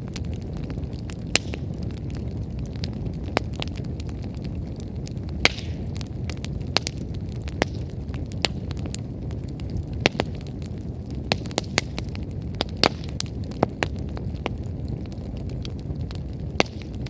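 Wood bonfire crackling: sharp, irregular pops of burning firewood over a steady low rumble.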